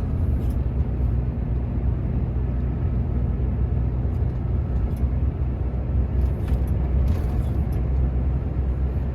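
Steady low drone of a Volvo truck's diesel engine and tyre noise on the road, heard inside the cab while driving.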